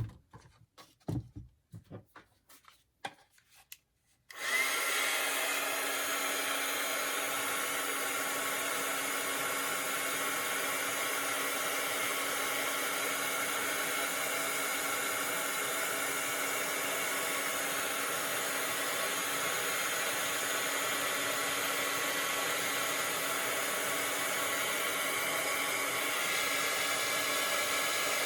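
A few light handling knocks, then a craft heat gun switches on about four seconds in and runs steadily: rushing air with a faint whine. This is the heat gun used for heat-embossing, melting the embossing powder.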